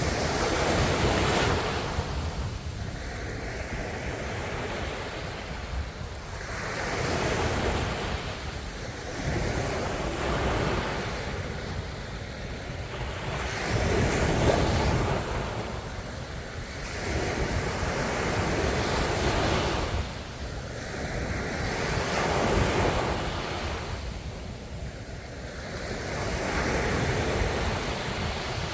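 Ocean waves breaking and washing ashore again and again, each one swelling and fading every four to five seconds over a steady low rumble.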